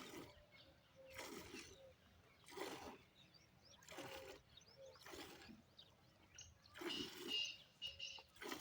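Milk squirting into a pail as a cow is hand-milked: short hissing strokes about once every second and a half, with faint bird chirps between them.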